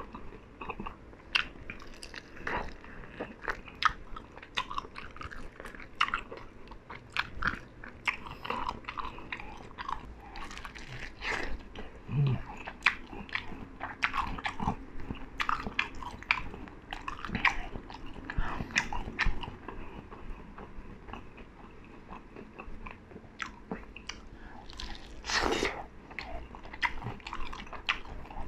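Close-up chewing and biting of sauce-coated fried chicken: wet smacking lip and mouth sounds with many irregular crunchy clicks, and a brief hiss near the end.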